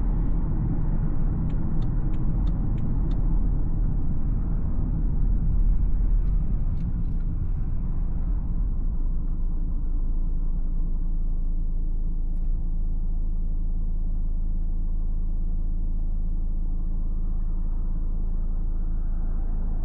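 BMW X4 xDrive20d's four-cylinder diesel and tyre noise while driving. The road noise fades about eight seconds in, leaving a steady low engine hum. A quick run of small ticks comes about two seconds in.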